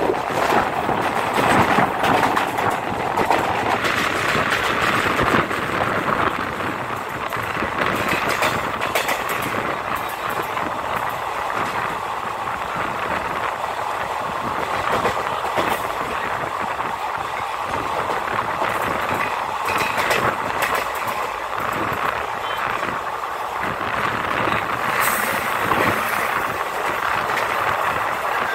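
Passenger train coach running at speed, heard from its open doorway: a steady rush of wheels on rail with wind, and frequent clicks as the wheels cross rail joints. Near the end a freight train of hopper wagons starts passing close by on the next track.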